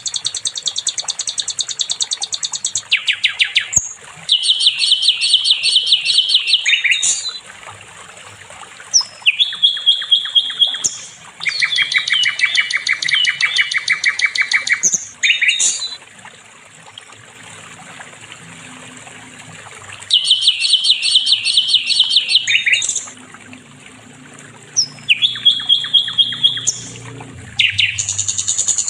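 Sikatan londo singing: loud, high trilled phrases, each a fast run of quick repeated notes lasting one to three seconds, broken by short pauses and repeated over and over.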